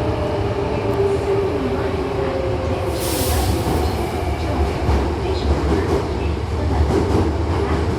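Electric commuter train running on rails, heard from inside the car: a steady rumble with wavering wheel and motor tones, and a brief hiss about three seconds in.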